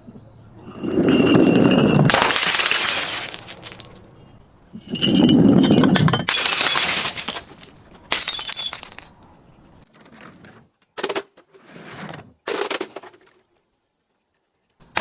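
Glass bottles breaking and crunching in two long bouts of shattering with ringing glass tones. These are followed by three short crunches, after which the sound cuts off abruptly.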